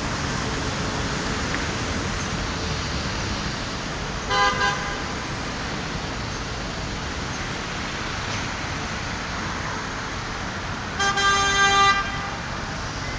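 Steady city traffic noise with a vehicle horn tooting twice: a short double toot about four seconds in, and a longer toot of about a second near the end.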